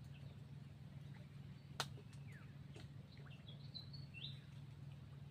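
Faint bird chirps and short, falling calls over a low steady hum, with a single sharp click about two seconds in.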